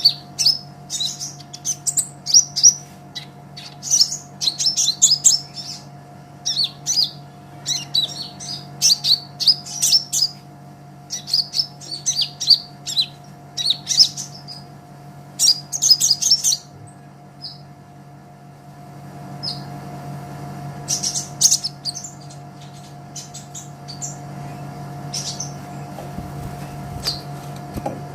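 Kolibri ninja sunbird singing: rapid high-pitched chirps and twittering trills in quick bursts, dense for the first half and sparser after that, over a steady low hum.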